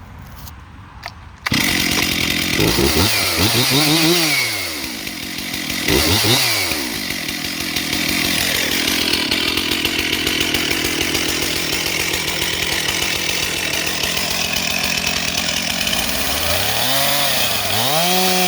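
Two-stroke chainsaw engine starting abruptly about a second and a half in. It revs up and down a couple of times, then runs steadily at high speed for most of the rest, with more rises and falls in pitch near the end.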